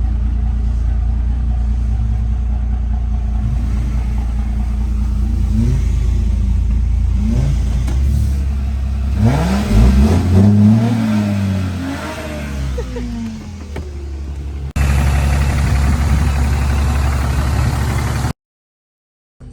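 Modified diesel pickup truck engine under way, running steadily, then revving up and down through the middle as the truck accelerates. Near the end it drops to a steady drone that cuts off abruptly.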